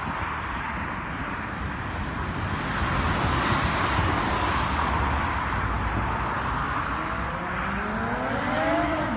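Kawasaki ZR-7's air-cooled inline-four engine running, with its revs climbing in a steady rising whine over the last two seconds.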